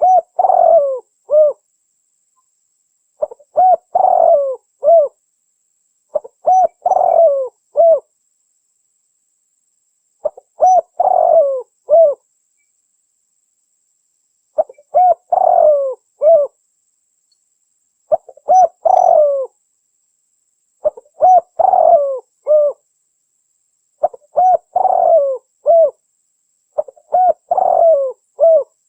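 Spotted dove (tekukur) cooing song, repeated nine times: each phrase is a short run of three or four coo notes lasting about a second and a half, coming every three to four seconds with complete silence between phrases.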